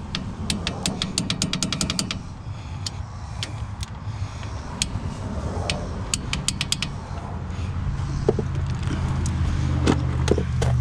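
Socket ratchet clicking in quick runs of clicks as bolts are tightened, over a steady low hum.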